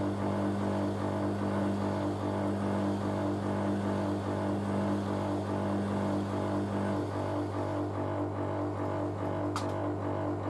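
Drain pump of a Hoover A3060 Electronic 1100 washing machine running, pumping out the water before the spin, with a steady low hum. A single sharp click near the end.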